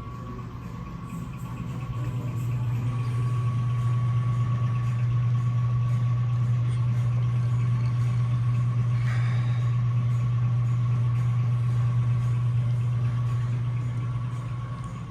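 A steady low mechanical hum that swells in over the first few seconds, holds level, and fades near the end, with a faint steady higher tone underneath.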